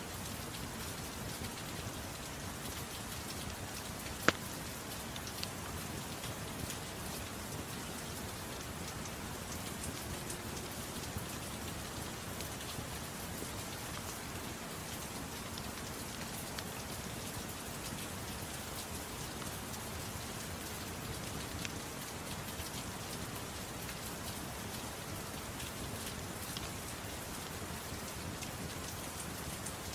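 Steady gentle rain mixed with a crackling wood fire: sharp pops here and there, the loudest about four seconds in.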